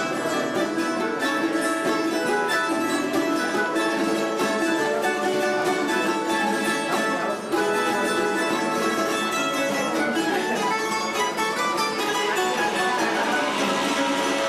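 Plucked-string trio of bandurria, laúd and guitar playing a Cádiz carnival tango, with fast runs of plucked notes over strummed chords.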